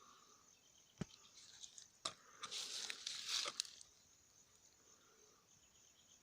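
A couple of sharp clicks, then a dry crunching, crinkling rustle lasting about a second, over a faint steady high-pitched insect trill.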